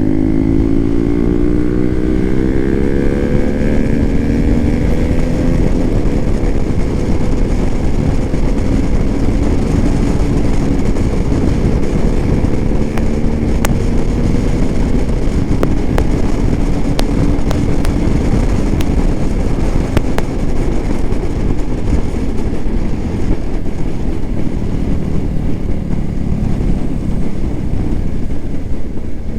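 Hero Xpulse 200 4V's single-cylinder engine running through an aftermarket SC Project exhaust under way. The exhaust note rises over the first several seconds as the bike accelerates, then holds steadier over a dense rush of noise.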